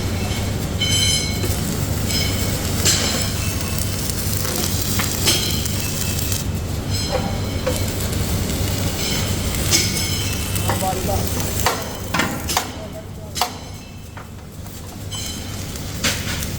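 Workshop machinery humming steadily while metal parts clank and ring at irregular intervals, the sound of metalworking in a factory shop.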